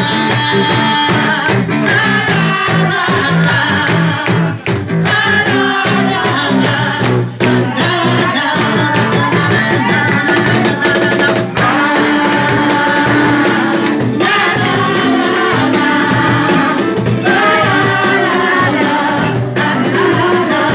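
Live band music: acoustic guitar and drums playing the introduction of a song, with singing.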